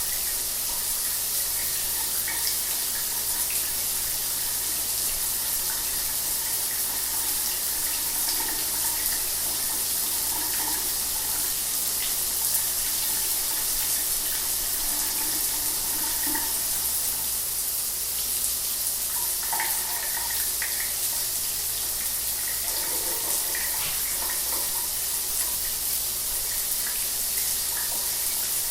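Shower water running steadily, an even hiss of spray with small splashes scattered through it.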